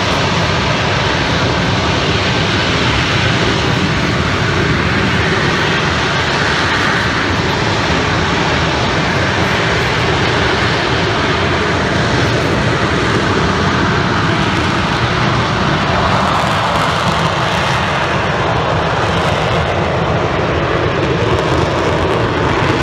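Fighter jets' engines: a loud, steady rush of jet noise that swells a little now and then.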